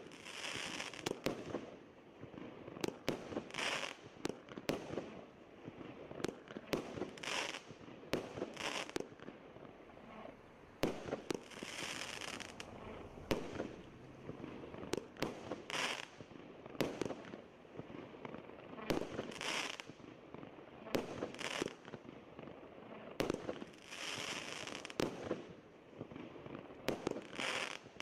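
A 36-shot, 1-inch-calibre consumer fireworks cake firing shot after shot at irregular intervals: sharp launch and burst bangs, several of them followed by about a second of crackling stars.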